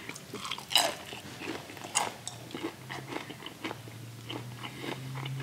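Close-up chewing of crispy breaded fried chicken: irregular crunches of the breading between the teeth. A low steady hum joins in about halfway through.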